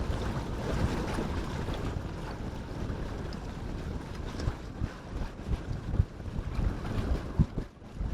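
Wind buffeting the microphone in gusts, a rumbling noise that dips briefly near the end.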